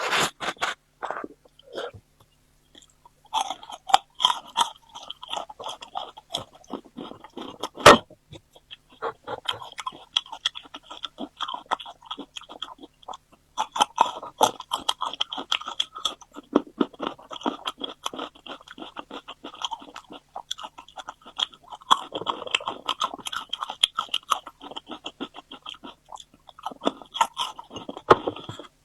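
Close-miked chewing and crunching of food, a dense run of small crackling bites and smacks. There is a short lull about two seconds in and a sharp, louder click about eight seconds in.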